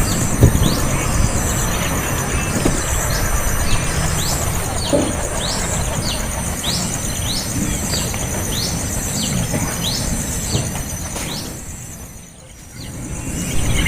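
A small bird calling over and over with short, high, downward-sweeping chirps, about one to two a second, over a steady high buzz and low rumble. The sound dips away for a moment near the end.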